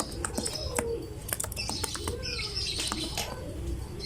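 Lovebird chattering: rapid high chirps and twitters mixed with many sharp, ticking clicks.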